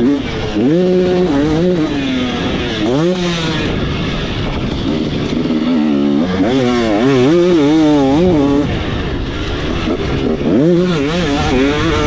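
KTM 300SX's single-cylinder two-stroke engine revving hard while ridden, its pitch climbing and falling again and again as the throttle is worked and the gears change.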